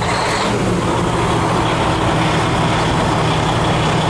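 A diesel truck engine running steadily at idle.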